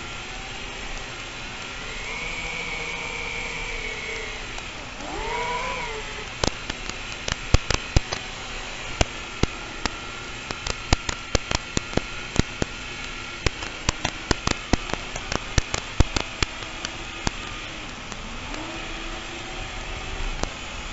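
FPV drone's electric motors whining, the pitch gliding up and down with the throttle. From about six seconds in comes a run of sharp, irregular clicks.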